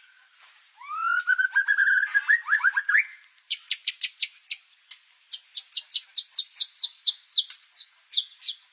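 White-rumped shama (murai batu) singing: after a quiet moment, a rising whistle and quick chirps, then a long run of rapid, short, falling high notes repeated about four times a second. The song is taken for mimicked cililin phrases.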